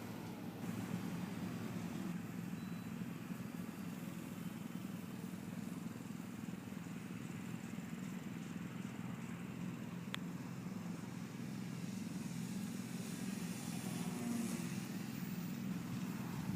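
Electric motor and propeller of a ParkZone F4F Wildcat RC plane droning steadily in flight, over a low, even rumble, with a single sharp click about ten seconds in.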